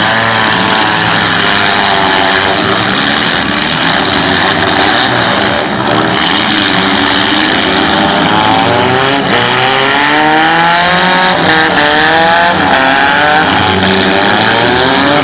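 Several compact cars' engines revving hard together in a demolition derby heat, their pitches rising and falling over one another.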